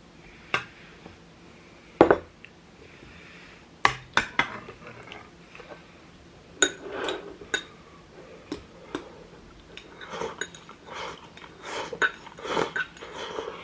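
Spoon and chopsticks clinking and knocking against bowls and dishes during a meal: about a dozen sharp separate clinks, with softer scraping between them in the second half.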